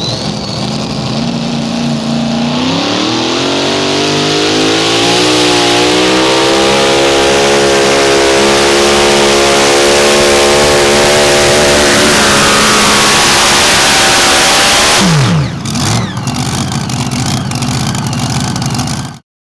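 Mini rod pulling tractor's engine winding up to high revs at full throttle and holding there for about ten seconds, then dropping sharply off the throttle near the end and running lower.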